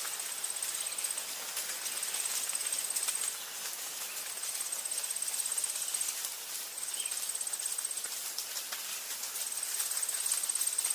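Forest ambience: an insect's high, rapidly pulsed trill repeating in phrases of about one to two seconds with short pauses, about five times, over a steady hiss.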